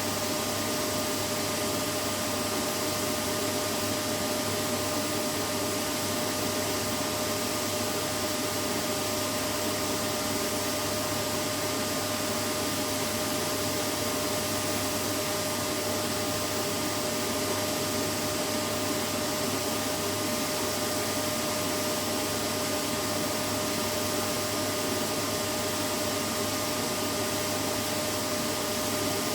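Vacuum cleaner running steadily: an unbroken motor whine over rushing air noise with a steady hum, used as white noise to soothe a baby to sleep.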